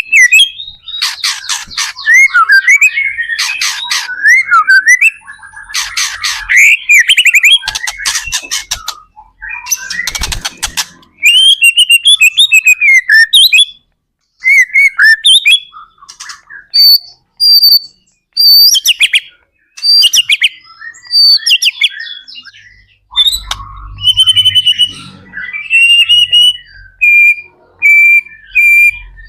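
White-rumped shama (murai batu) singing loudly in varied phrases. Harsh rattling notes are mixed with whistled warbles, and clearer whistles and glides follow. Near the end comes a run of short repeated notes.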